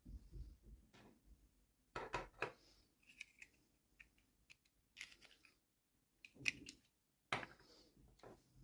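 Quiet, scattered clicks and crinkles of small toy packaging being handled and opened by hand, in a few short clusters.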